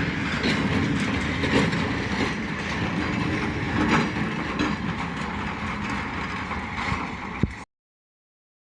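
Freight train wagons rolling past, wheels clicking steadily over the rail joints. The sound cuts off abruptly near the end.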